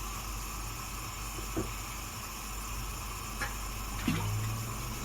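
A pot of Coca-Cola and chicken drumsticks simmering on a low flame: a steady hiss with a few soft pops.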